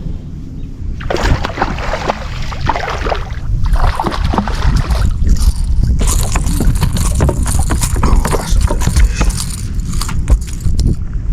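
Water sloshing and splashing around a small fishing boat, with a steady low rumble of wind on the microphone.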